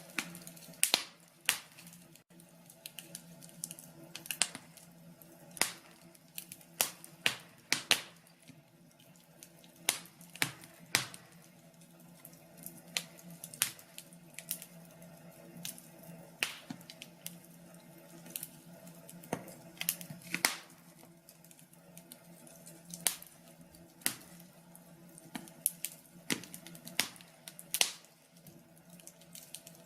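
Wood fire in a fireplace crackling, with irregular sharp pops and snaps, sometimes several close together, over a faint steady low hum.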